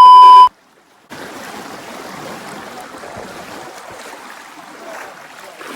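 A loud, steady electronic bleep cuts off about half a second in, followed by a moment of silence. Then comes the steady rush of a flowing stream.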